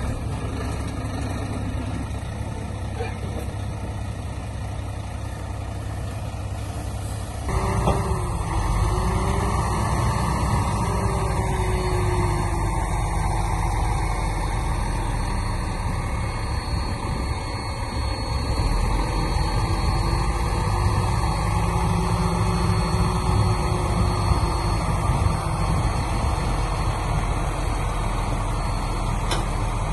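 Heavy diesel construction machinery running steadily. About a quarter of the way in the sound abruptly gets louder and fuller, and a faint wavering whine rides on top at times.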